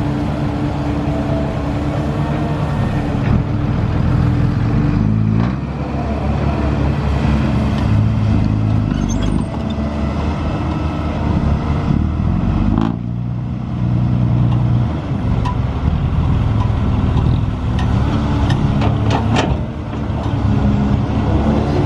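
Diesel engine of heavy construction machinery running, its engine speed rising and falling several times, with a few sharp clanks in the second half.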